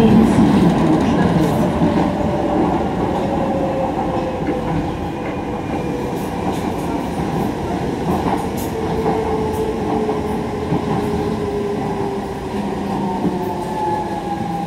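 Docklands Light Railway train running on the track, with a steady rumble and a faint whine that slowly falls in pitch.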